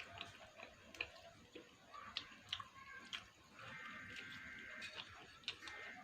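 Faint eating sounds close to the microphone: soft chewing with small wet mouth clicks scattered through, and a longer soft hissy stretch about halfway in.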